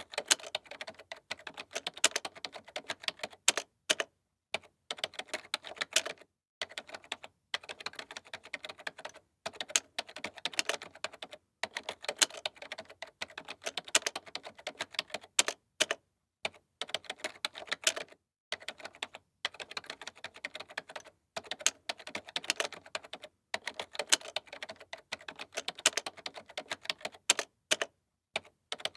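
Computer keyboard being typed on in quick runs of key clicks, each run a second or two long with brief pauses between.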